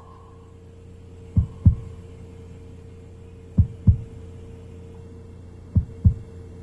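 Heartbeat sound effect: three slow lub-dub double thumps, deep and short, about two seconds apart, over a steady low hum.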